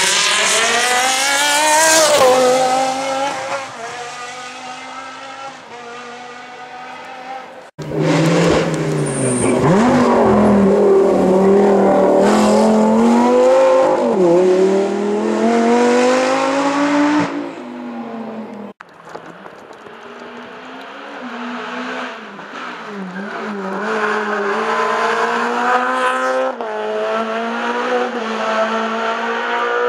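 Hill-climb race car engines at full throttle, the pitch climbing through each gear and dropping back at every shift as the cars pass and pull away. Three separate passes, split by abrupt cuts about 8 and 19 seconds in; the last one is quieter and builds up.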